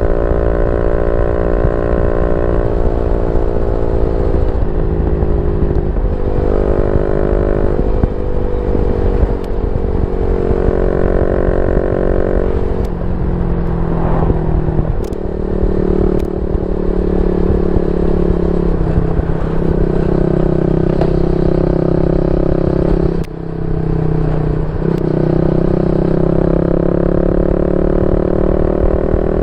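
Yamaha Y15ZR's 150cc single-cylinder four-stroke engine running loudly through a YYPANG SD3 aftermarket exhaust. Its pitch holds steady for a few seconds at a time, then steps down or back up several times.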